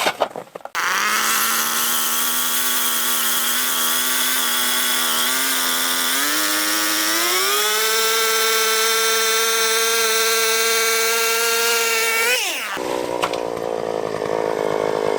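Power ice auger drilling a hole through thick lake ice, its motor running with a steady whine. About six to eight seconds in, the pitch climbs to a higher, steady note, and it cuts off near twelve and a half seconds.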